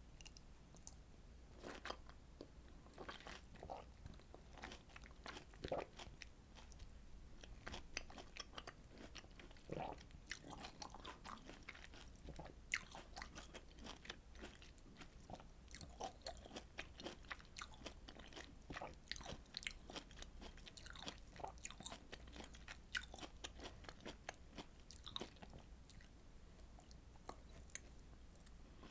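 Close-miked chewing and biting of citrus fruit, heard as many short clicks in an irregular stream.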